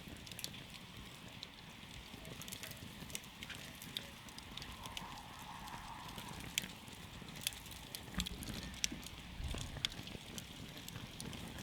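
Wood campfire crackling, with irregular sharp pops and snaps over a soft steady hiss.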